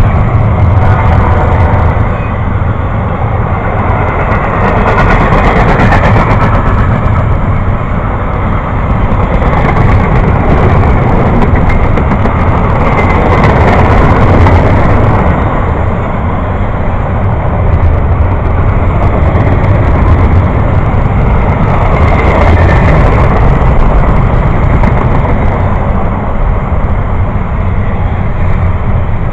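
A train rolling past, with a steady, loud rumble of wheels on rail that stays continuous throughout.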